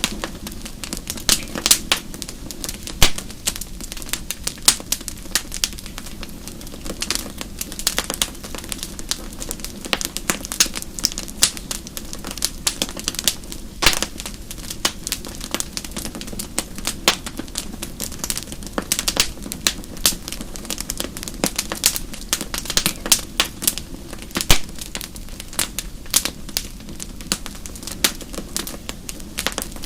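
Wood fire burning in a fireplace, with many sharp irregular crackles and pops from the burning logs over a steady low rumble of flame.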